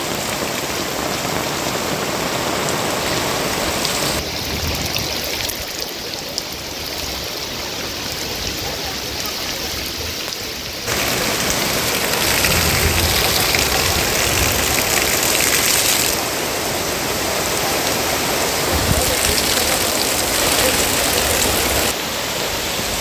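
Heavy rain pouring down in a storm, a steady loud hiss of water whose level jumps up or down abruptly several times.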